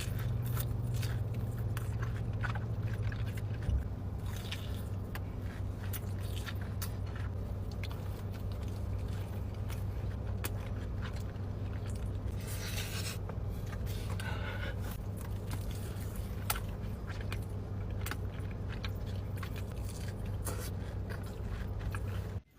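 Close-miked eating: a steady run of crunchy bites, crackles and chewing, over a steady low hum, cutting off suddenly near the end.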